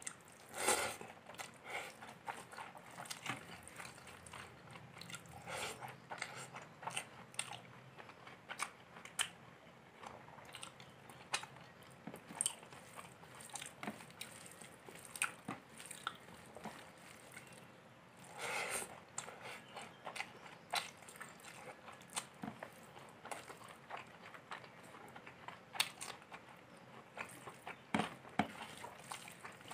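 Close-up eating sounds of pulao rice and chicken curry being eaten by hand: chewing, with many small wet mouth clicks throughout and a couple of louder bursts, about a second in and at about 19 seconds.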